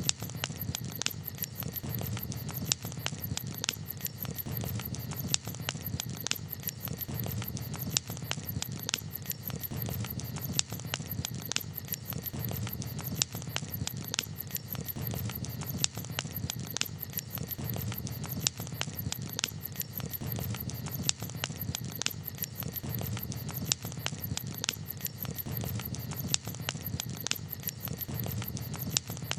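Wood campfire crackling: many sharp, irregular pops and snaps over a low, steady rush of the flames.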